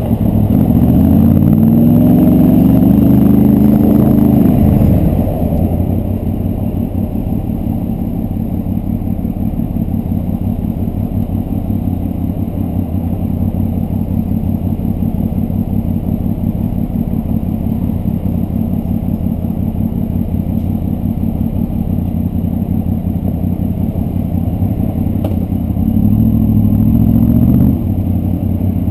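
Honda VFR Interceptor's V4 engine heard from the rider's helmet. It accelerates with a rising pitch for the first few seconds, then runs steadily at lower revs. Near the end it revs up again briefly and drops off abruptly.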